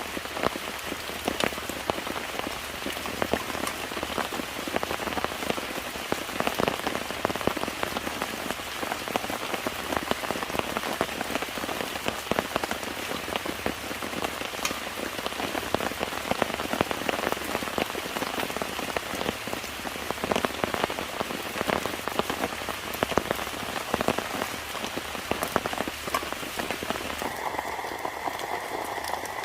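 Steady rain falling on a surface, many separate drops ticking through a dense hiss. About two seconds before the end, the sound changes to a steadier, smoother hiss.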